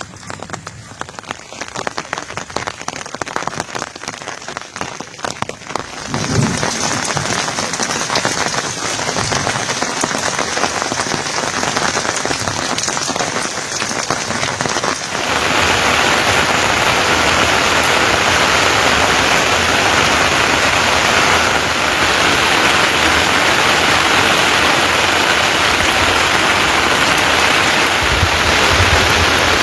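Rain falling, at first as separate drops pattering on a surface, then as a dense, even hiss that grows louder about halfway through.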